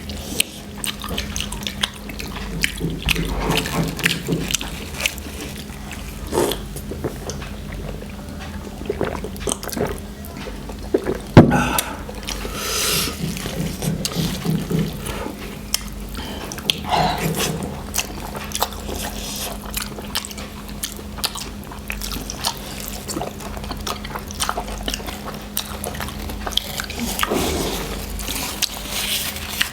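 People slurping and chewing noodles close to the microphone: many small wet clicks and smacks, with one sharp, louder click about eleven seconds in. A steady low hum runs underneath.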